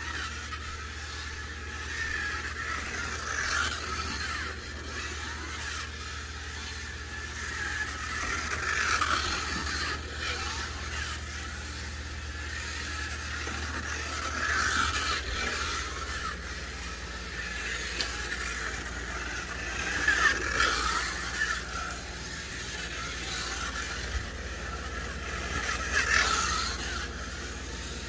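Monogram 1956 Indy 500 racer 1:24 slot car running laps on a slot track: its small electric motor and gears whine, and the guide blade's brass braids scrape along the track rails. The sound swells and fades about every five to six seconds.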